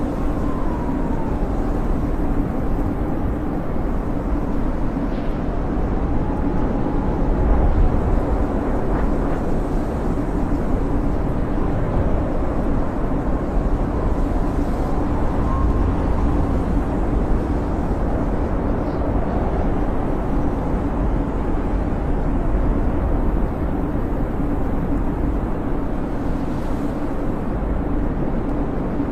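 Blizzard wind howling: a steady low roar with faint wavering whistles that rise and fall.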